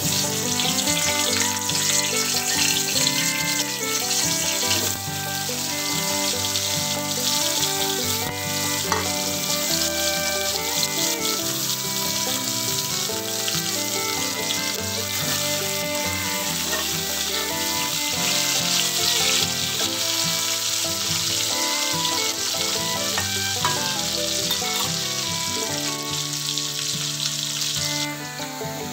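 Potato chunks sizzling in hot oil in a wok, a steady hiss that eases off near the end, over background music.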